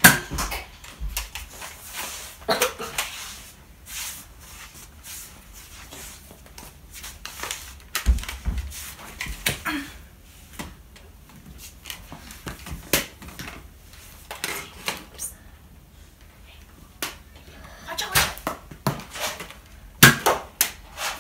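Irregular clicks and knocks of a Nerf blaster fight on a tiled floor, loudest at the very start and again near the end.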